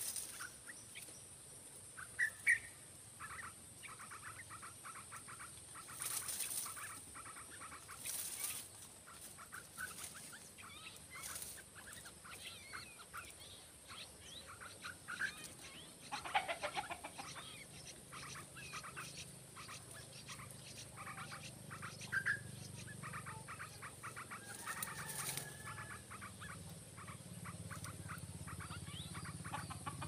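Yellow-vented bulbuls (trucukan birds) chirping in quick chattering trains, over a steady high hiss, with a few short bursts of noise.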